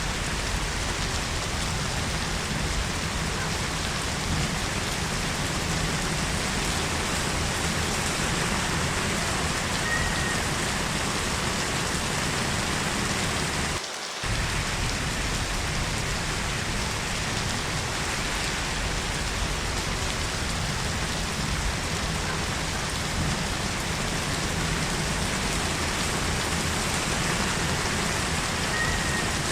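Heavy rain falling steadily, with one brief dip in level about halfway through.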